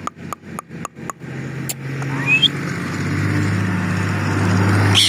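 A motor running with a steady low hum that grows louder, after a quick run of regular clicks in the first second; a short rising chirp sounds about two and a half seconds in.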